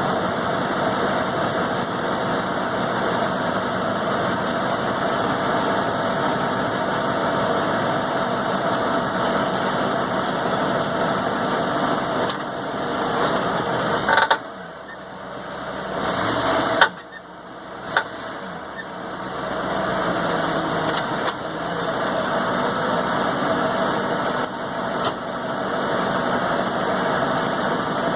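1994 Ford F-150 engine running steadily. About halfway through the level drops for a few seconds, and a few sharp knocks stand out around then: an unknown noise that the owner thinks may be a radius arm bushing as the truck is power-braked.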